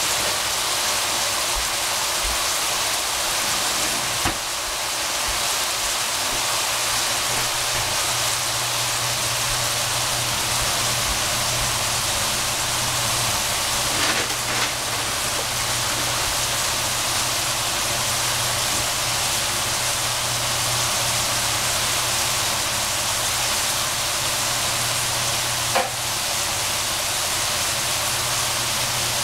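Food sizzling steadily in a hot pan, with a few brief knocks about four, fourteen and twenty-six seconds in.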